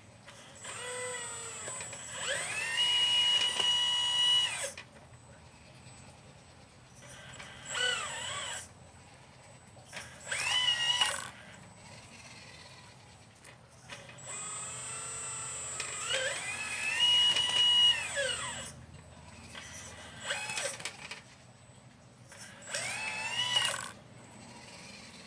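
Electric motor whine from a 1/12-scale RC Liebherr 954 excavator model, in six bursts: each spins up in pitch, holds, then winds down. Two of the bursts last about four seconds and four are short.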